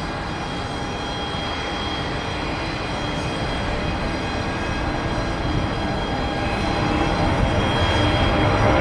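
Large aircraft's engines running with a steady rumble and whine, slowly growing louder toward the end.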